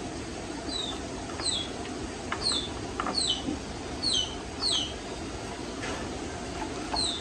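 A small bird calling repeatedly: short high chirps, each falling in pitch, about one a second, over a steady background hiss, with a few faint knocks.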